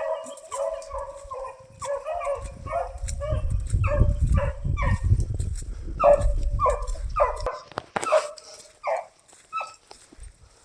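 A dog barking in a fast, steady series of short yips, as a dog gives voice while running a flushed rabbit. The barks die away near the end.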